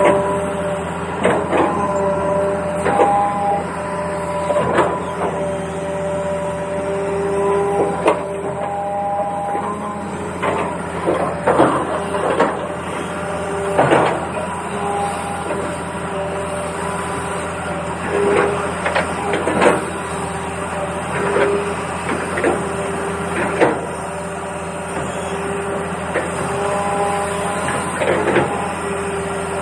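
Small electric motors of a toy excavator whirring in short runs that stop, start and change pitch, with scattered plastic clicks and knocks.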